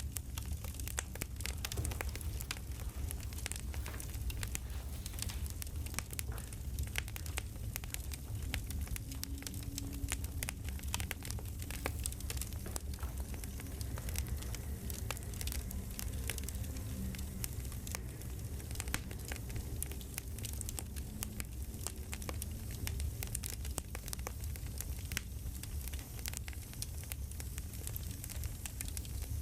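Campfire crackling steadily: a dense run of sharp pops and snaps of burning wood over a low, even rumble of the fire.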